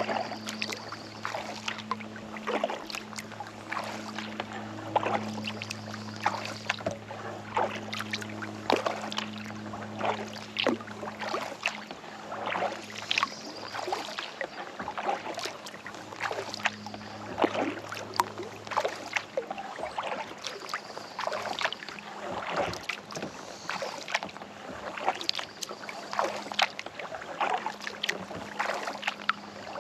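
Kayak paddle strokes: the blades dipping and pulling through lake water with splashes and drips about once a second, over a steady low hum that fades out about two-thirds of the way through.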